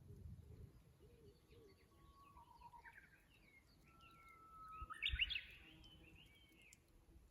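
Japanese bush warbler (uguisu) singing: one long held whistle, then a quick loud flourish of higher notes about five seconds in, the 'hoo-hokekyo' song. Other small birds chirp faintly throughout.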